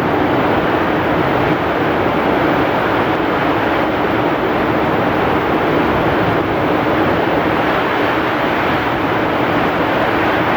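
Heavy rainstorm: dense rain pouring down with strong wind, a loud, steady, unbroken rush.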